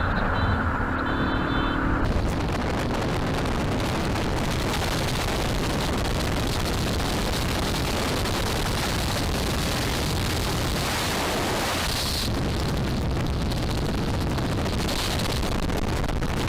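Heavy wind roar buffeting the microphone of a camera on a moving motorcycle at speed, steady and unbroken, with the road and engine noise buried under it. A vehicle horn sounds briefly in the first two seconds.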